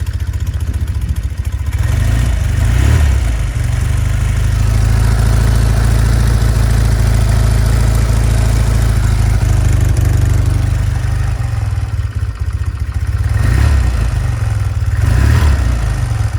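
1974 Norton Commando MKIIA parallel-twin motorcycle engine running just after a cold start. Short throttle blips come about three seconds in and twice near the end.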